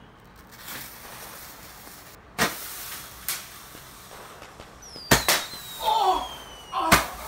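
Small fireworks going off in a room: sharp bangs about two and a half seconds in, again a second later, a quick pair around five seconds and one more near the end, with a thin whistle falling in pitch between the last bangs.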